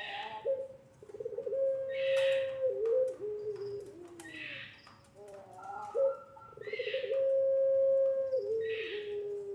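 Puter pelung, a long-voiced breed of domestic turtle dove, cooing: two long drawn-out coos, each held at one steady pitch and stepping down at the end. Short hissy sounds recur about every two seconds between the coos.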